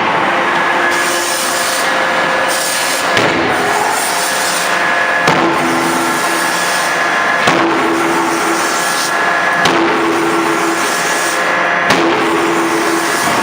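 CNC hydraulic die forging hammer striking a bevel gear forging in its die, a sharp blow about every two seconds over the steady running noise of the hydraulic machinery. Each blow is followed by a short steady hum.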